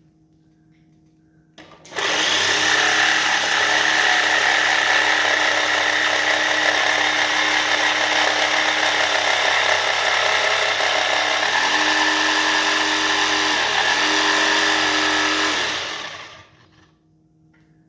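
Electric power saw running and cutting wood: it starts suddenly about two seconds in, its tone shifts twice near the end as the cut loads it, and it winds down a second or so before the end.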